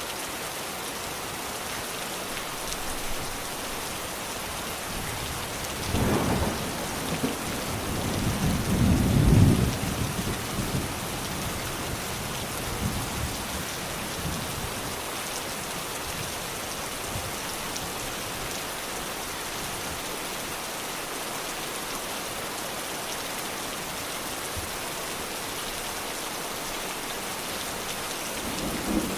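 Steady rain falling with an even hiss. A low rumble of thunder comes in about six seconds in, swells for a few seconds and then fades back under the rain.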